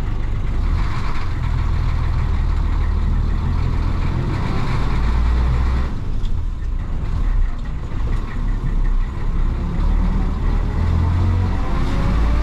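Isuzu BXD30 bonnet bus's DA640 diesel engine running as the bus drives. The engine note breaks off briefly about halfway, then picks up again and rises near the end.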